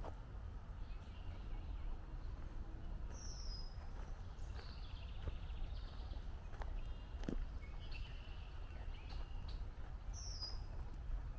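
Woodland birds calling. A short, high, falling call comes twice, about three seconds in and again near the end, between bouts of chattering notes from other birds. Underneath is a steady low rumble, with a few soft footsteps on the trail.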